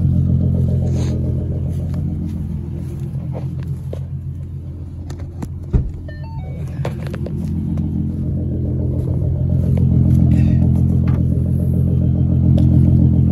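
2014 Ford Mustang's 3.7-litre V6 idling steadily, its sound swelling and fading slowly, with one sharp knock about six seconds in.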